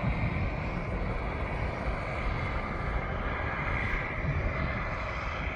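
Turbine helicopter running steadily in flight: an even engine whine over a low rumble.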